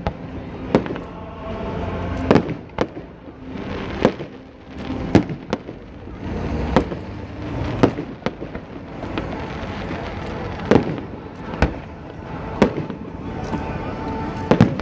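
Aerial fireworks display: a string of sharp bangs from bursting shells at irregular intervals, roughly one a second, over a steady background noise.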